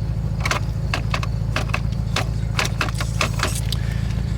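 Ford Mustang engine running steadily through an aftermarket Flowmaster exhaust, a low pulsing drone, with scattered light clicks and rattles on top.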